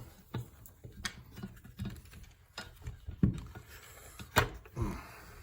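Handling noise from a Corvette headlight motor assembly being turned over and worked on at the bench: scattered clicks and knocks of parts being moved and set down, the sharpest a little over four seconds in.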